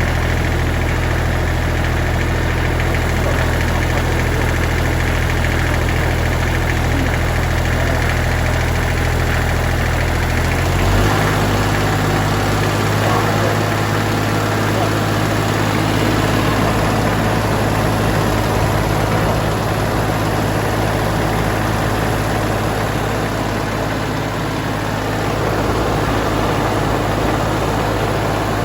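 Tractor engine running steadily at idle, then its speed steps up about eleven seconds in and holds steady at the higher speed.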